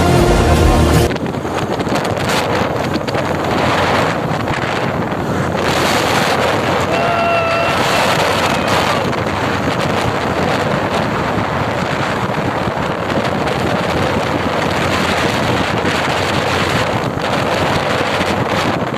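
Steady wind rush buffeting the microphone of a motorcycle riding at speed on a highway. A short horn sounds about seven seconds in. Background music cuts off about a second in.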